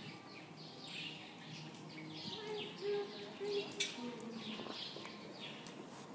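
Birds chirping over and over in short, quick falling chirps, faint.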